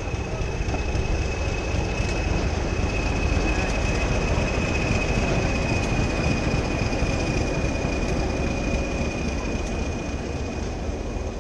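Train moving along the track with a heavy rumble and a steady high-pitched wheel squeal, growing slightly louder over the first couple of seconds.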